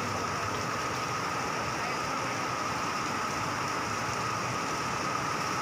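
Heavy rain pouring onto a flooded road as an even, steady hiss, with traffic noise and a constant high whine running through it.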